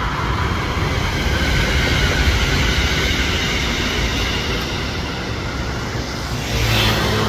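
Red-and-white electric commuter train, an SRT Red Line unit, running along the tracks with a steady rumble, mixed with road traffic passing close by. A road vehicle's engine hum comes in near the end.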